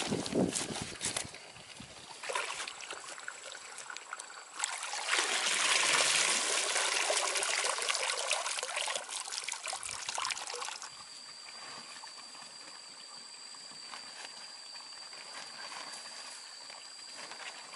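Water pouring steadily for about six seconds, starting about five seconds in and cutting off suddenly, after scattered splashes in the first seconds.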